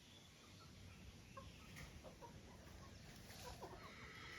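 Faint, soft clucking of chickens foraging, a few short calls scattered over a quiet background.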